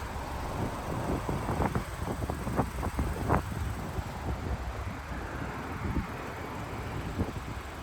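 Wind buffeting the microphone in a low rumble, with scattered light clicks and knocks.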